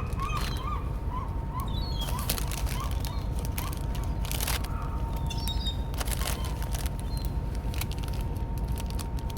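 Seagulls calling: a quick run of short, repeated calls in the first couple of seconds, then a few scattered calls, over a steady low rumble.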